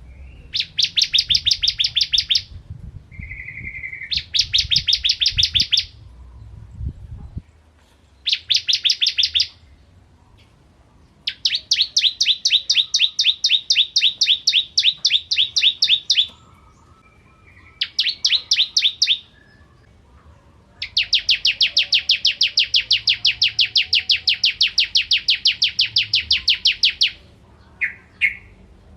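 Bar-winged prinia (ciblek kristal) singing: long, rapid trills of high, evenly repeated notes, in bouts of one to six seconds with short pauses between them.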